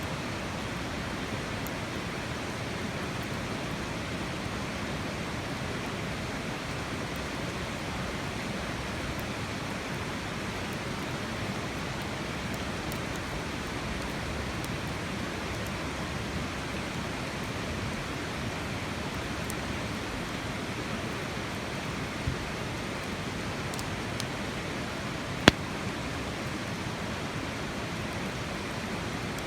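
Wood campfire burning, with faint scattered crackles and two sharp pops, the louder one about 25 seconds in, over a steady, even rushing noise.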